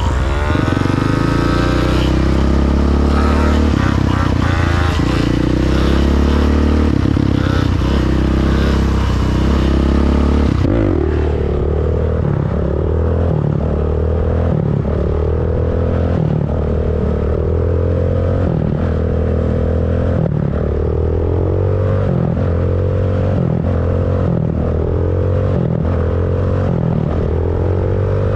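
Motorcycle engine running and revving. About ten seconds in the sound cuts to a run of repeated rev blips, the pitch rising and falling roughly once a second.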